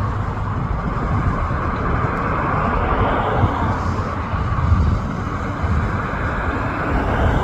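Steady road-traffic noise: a low rumble with a hiss of tyres and wind over it, swelling slightly about midway.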